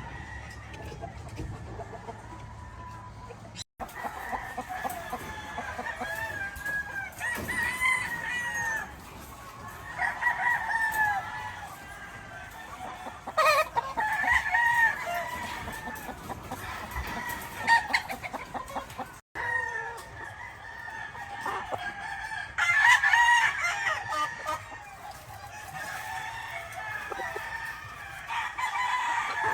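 Gamefowl roosters crowing over and over, one call after another through the whole stretch. The sound drops out for an instant twice.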